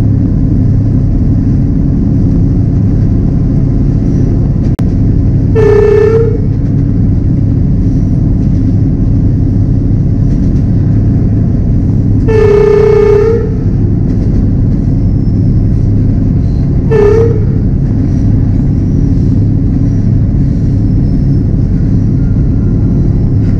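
Diesel train running with a steady low rumble, its horn sounding three times: a short blast about six seconds in, a longer one around twelve seconds, and another short one about seventeen seconds in. The horn blasts are warnings as the train runs past roads and crossings.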